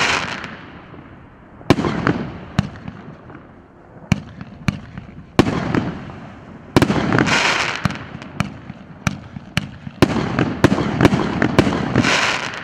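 A 'Kuzkina Mat'' multi-shot consumer firework cake firing: a series of sharp launch shots, irregularly spaced, each followed by bursting and crackling stars. The bursts come thickest in the second half and stop just before the end.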